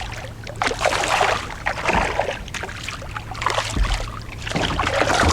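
Water splashing and sloshing beside a canoe in irregular bursts about a second apart, as a hooked fish is drawn in and thrashes at the surface.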